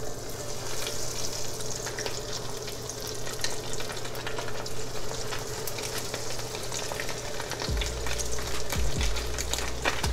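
Breaded crappie fillets frying in shallow hot oil in a pan: a steady sizzle with many small crackles, starting as the first piece is lowered in.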